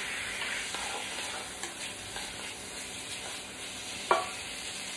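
Chicken pieces frying in oil in a wok, a steady sizzle as they are stirred and turned with a spatula. One sharp knock about four seconds in.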